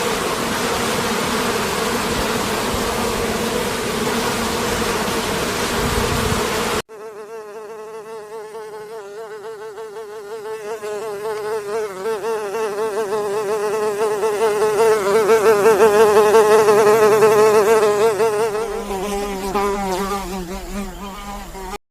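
Flying insects buzzing in two recordings joined by a cut. The first is a steady, rough buzz lasting about seven seconds. It is followed by a clearer buzz whose pitch wavers as it swells louder and then fades near the end.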